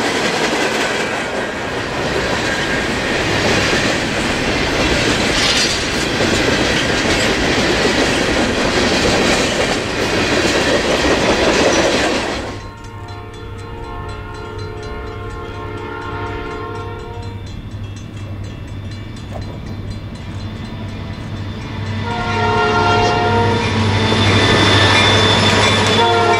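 Freight cars rolling past close by, a steady noise of wheels on rail. Then, after a sudden change, the approaching EMD SD40 diesel locomotives sound their multi-note horn in a long blast over a steady low engine drone, and blow it again, louder, as they draw near.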